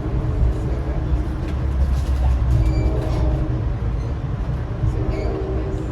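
Passenger train running, heard from inside the coach: a steady low rumble of wheels on rail with a hum over it and occasional light clicks.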